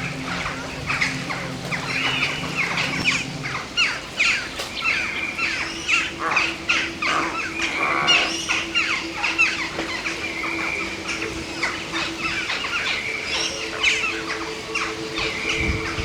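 Many birds calling at once: a dense chatter of short, sharp calls, over a steady low hum that shifts in pitch about three seconds in.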